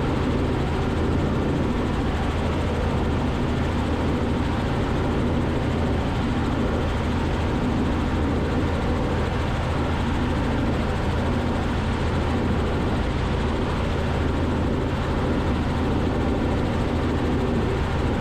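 Robinson R44 helicopter's piston engine and rotors running in cruise flight, a steady drone with a low hum, heard through the cockpit intercom feed.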